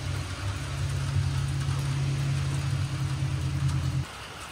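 A steady low mechanical hum, like an idling motor, over a steady hiss. The hum stops suddenly about four seconds in, leaving the hiss alone.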